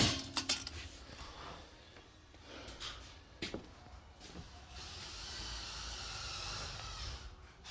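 A sharp knock at the start, a few soft clicks, then a steady hiss for about two and a half seconds near the end.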